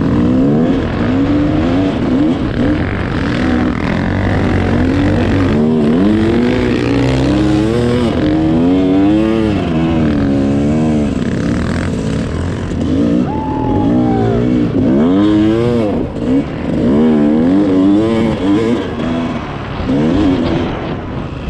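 Dirt bike engine being ridden hard through sand, the throttle opened and closed over and over so the revs climb and drop every second or so.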